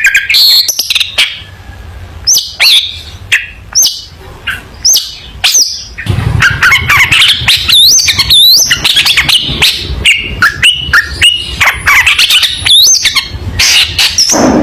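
Long-tailed shrike (cendet) singing a fast, varied run of sharp chirps, squawky calls and short rising and falling whistled notes, mixed with clicks. The song gets louder and denser from about six seconds in.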